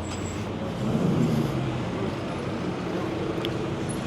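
Road traffic: a steady hum of passing motor vehicles, growing a little louder about a second in as an engine goes by.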